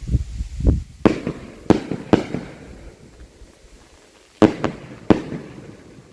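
Distant fireworks or firecrackers going off: about six sharp bangs in two clusters, each with a short echoing tail, after a low rumble in the first second.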